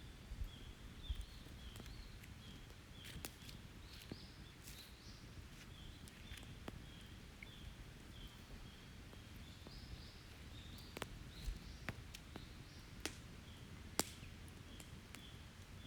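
Wood campfire crackling with a dozen or so sharp, scattered pops, while small birds call in the background with short, high, repeated chirps.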